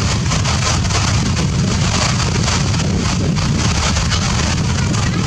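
Steady hiss of rain with a constant low rumble underneath, unchanging throughout.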